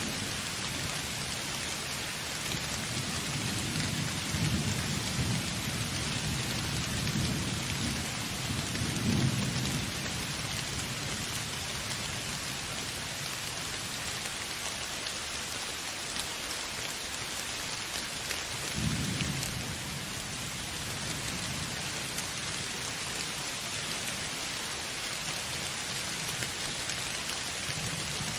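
Steady, heavy rain hissing, with low rolls of thunder rumbling between about three and ten seconds in and once more briefly near the middle.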